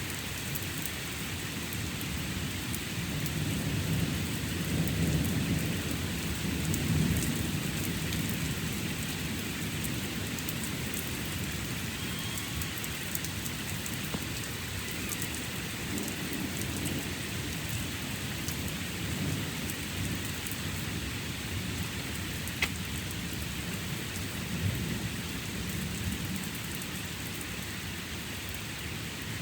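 Thunderstorm: steady rain falling, with low rolls of thunder rumbling. The thunder is loudest about four to seven seconds in and returns more weakly later.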